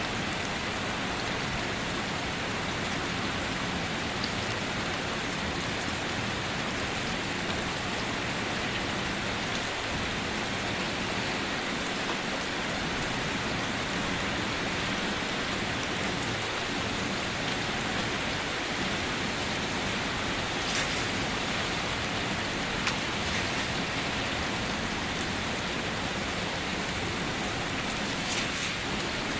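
Steady rain falling, with a few sharper drops ticking out from the hiss now and then.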